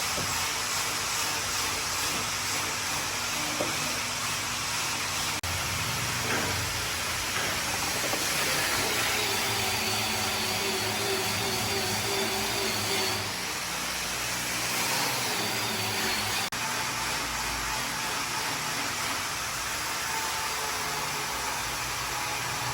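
Woodworking machinery running with a steady noise and a motor whine that wavers in pitch for a few seconds near the middle. The sound changes abruptly twice.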